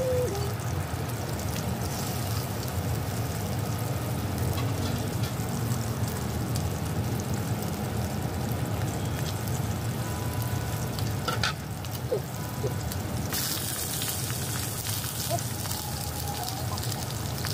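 Pork belly frying in oil in a wok: a steady sizzle with a few sharp spits, over a steady low hum. About 13 s in, the sizzle turns suddenly brighter and louder as a slice of fresh vegetable goes into the hot oil.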